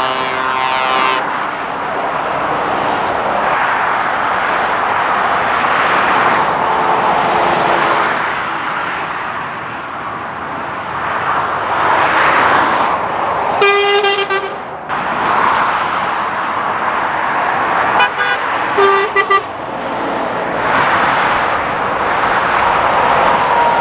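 Heavy road traffic passing in waves, with a horn sounding at the start, one long horn blast about 14 seconds in, and three or four short toots a few seconds later, typical of lorries honking as they go by.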